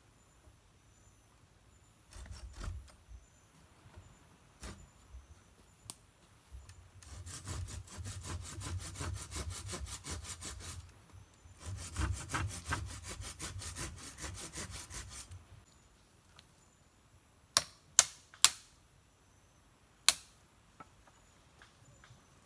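Wood being hand-sawn in two long bouts of quick back-and-forth strokes, followed near the end by four sharp knocks, three of them in quick succession.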